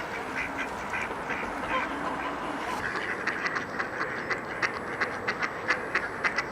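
Ducks quacking repeatedly, the calls coming thicker and faster from about three seconds in, over a steady rush of water from the swollen river.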